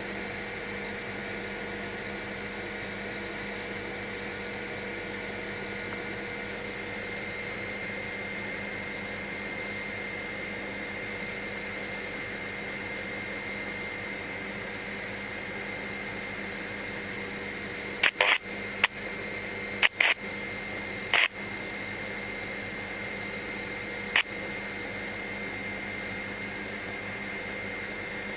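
Helicopter in cruise flight: a steady drone carrying several constant tones, heard through the cockpit intercom. A few short sharp clicks break in around two-thirds of the way through.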